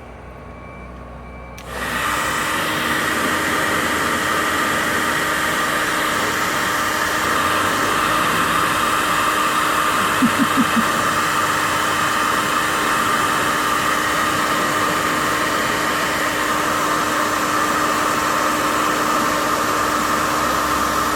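Handheld hairdryer switched on about two seconds in, blowing steadily with an even hum, then cutting off at the end.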